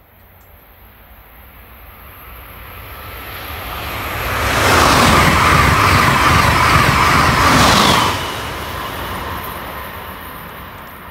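Amtrak Acela Express high-speed electric trainset passing close by at speed: a rushing noise that builds as it approaches and stays loud for about three and a half seconds. About eight seconds in it drops suddenly to a fainter rumble that fades away.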